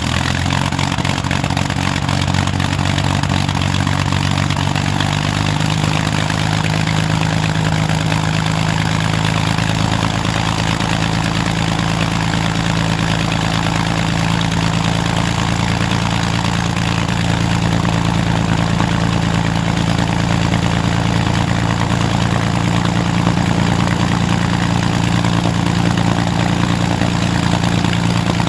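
Rolls-Royce Merlin V12 aero engine running steadily at low speed, its pitch stepping up slightly about five seconds in.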